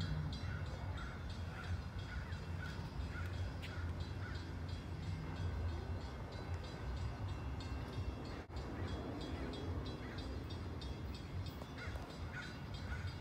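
Amtrak passenger train pulling into the station and running past the platform: a steady low rumble of its diesel locomotive and wheels on the rails.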